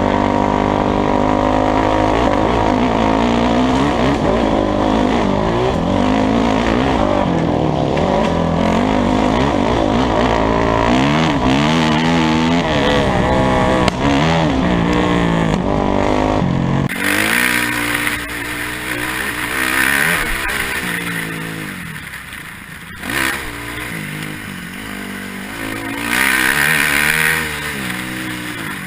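Dirt bike engine revving up and down while riding, its pitch rising and falling with the throttle. About 17 seconds in, the sound changes abruptly to a quieter engine with wind rushing over the microphone.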